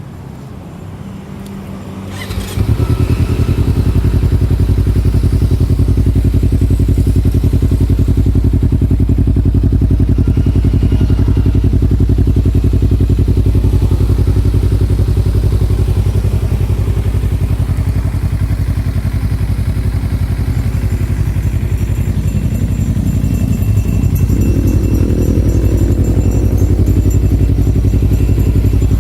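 Kawasaki Ninja 250 FI parallel-twin engine running through a Prospeed Spider Carbon aftermarket exhaust. After a quieter first two and a half seconds it comes in loud and then idles steadily.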